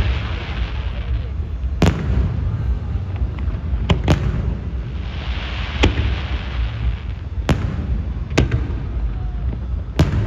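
Fireworks display: aerial shells bursting with sharp bangs every second or two, over a constant low rumble and crackling of other bursts, with crowd voices underneath.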